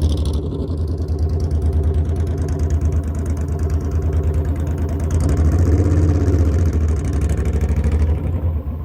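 Motorcycle engine running steadily at low revs with an even low pulsing note, picking up a little about halfway through before settling again.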